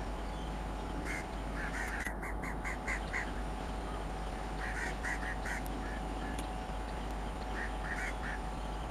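Bird calls in quick runs of short notes, about five a second: a single note about a second in, a run of about seven around two to three seconds in, another of about five near the five-second mark, and a short run of three or four near the end, over a steady hum.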